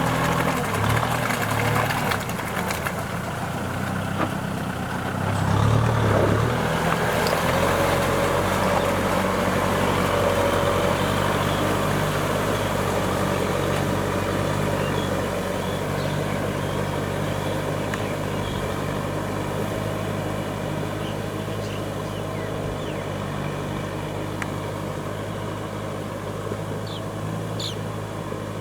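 Kubota M6040SU tractor's diesel engine running steadily under ploughing load, briefly louder about six seconds in.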